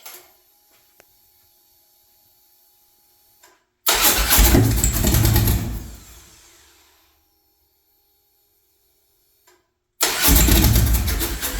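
A click, a faint steady whine, then two start attempts on a hard-starting engine whose idle air control has just been reset. Each attempt is about two seconds of loud cranking and firing, about four and ten seconds in. The first fades out and the engine does not keep running.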